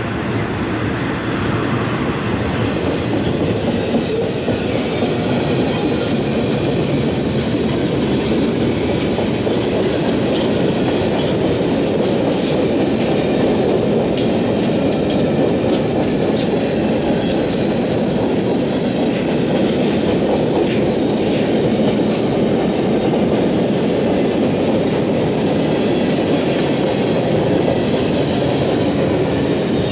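Freight train rolling past, its wheels clicking steadily over the rail joints under a continuous rumble.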